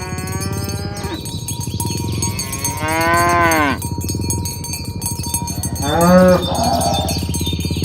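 Cattle mooing: one moo ends about a second in, a longer moo rises and falls near the middle, and a short moo comes near the end.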